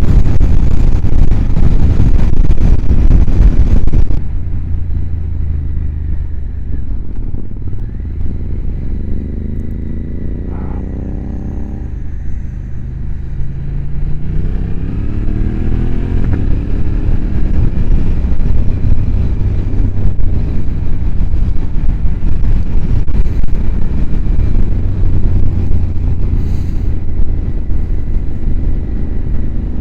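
Motorcycle engine under way, heard through heavy helmet wind noise that drops away about four seconds in. The engine pitch then falls as the bike slows and rises again from about fourteen seconds as it accelerates.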